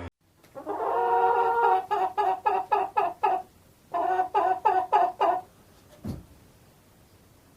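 Chicken calling: one drawn-out call followed by a quick run of short clucks at about four a second, then a second run of clucks after a brief pause. A short thump follows about six seconds in.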